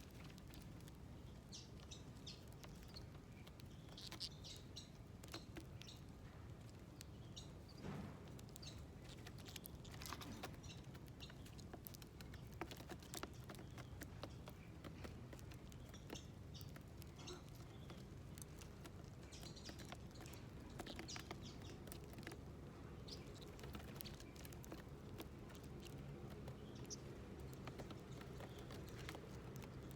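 Small wild birds at a feeding plate giving short, faint chirps scattered throughout, with light clicks and taps in between.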